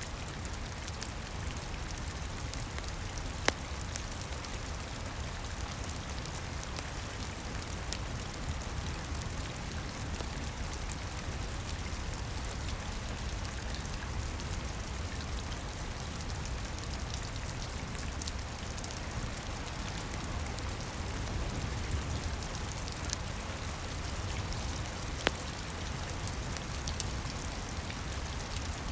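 Steady rain patter with a low rumble underneath, dotted with small crackles from a wood fire; two sharper, louder pops stand out, one about three and a half seconds in and one near the end.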